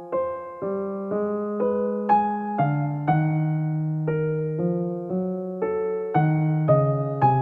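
Soft background music: slow piano or electric piano playing gently struck chords and notes, about two a second.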